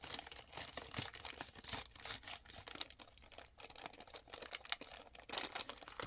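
Plastic packaging crinkling and rustling in irregular crackles while being handled, as a strand of beads is worked back into it.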